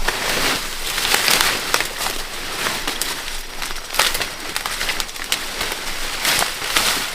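Dry rustling and crackling of plant material such as corn leaves and husks, with frequent sharp snaps at an irregular pace.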